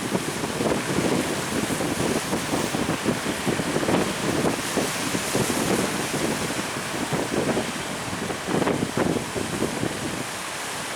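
Strong gusting wind buffeting the microphone, with a steady rush of waves and surf.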